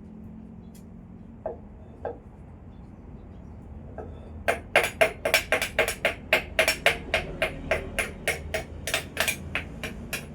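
A few scattered taps, then about four and a half seconds in, a run of rapid, even strikes of kitchen food preparation, about four a second, such as chopping or pounding ingredients.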